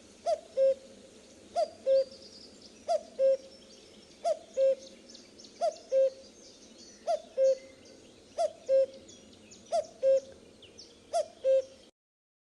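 Male common cuckoo giving its two-note "cuck-oo" call, a higher falling note then a lower held note, repeated nine times at a steady pace of about one call every 1.3 seconds. Faint chirping of other birds sits behind it, and the sound cuts off suddenly near the end.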